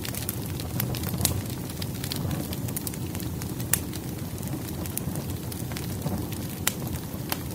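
Firewood burning in a fireplace: a steady low rush of flame with irregular sharp crackles and pops, a few of them louder snaps.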